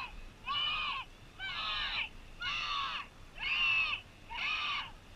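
An animal call repeated evenly about once a second, five times, each call short and arching in pitch.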